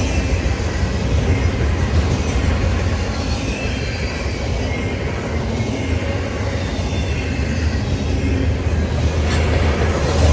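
CSX freight train rolling past, its cars making a steady low rumble with rail noise.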